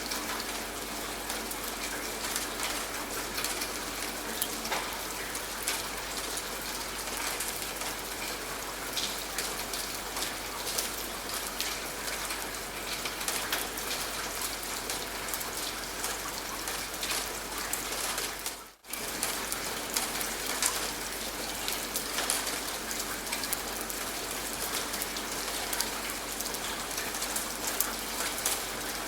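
Steady rainfall with many close individual drop hits. The sound cuts out for a split second about two-thirds of the way through, then resumes unchanged.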